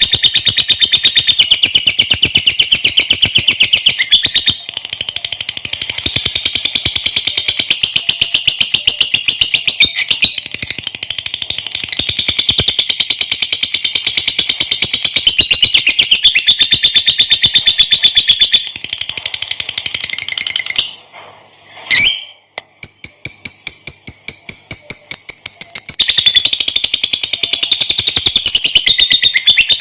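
Lovebird giving a long, rapid, high-pitched chattering trill (the "ngekek panjang"), breaking off briefly about two-thirds of the way through and then starting again.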